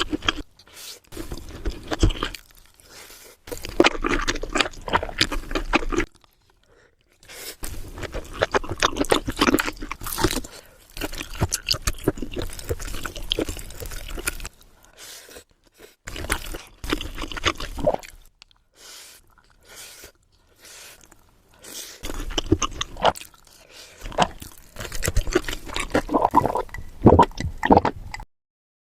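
Close-miked eating sounds of kielbasa sausage and fried rice: chewing and crunching in several bursts separated by short silent gaps, cutting off suddenly near the end.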